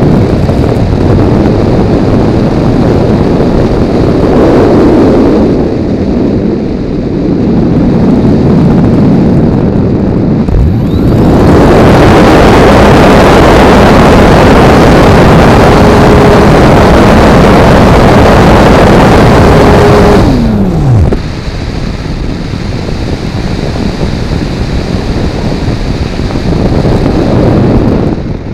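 Wind rushing over an onboard camera on a Multiplex Blizzard RC model plane in flight. About ten seconds in, the plane's PolyTec motor and propeller spin up with a rising pitch, run loud for about ten seconds, then spin down with a falling pitch and leave the wind noise alone again.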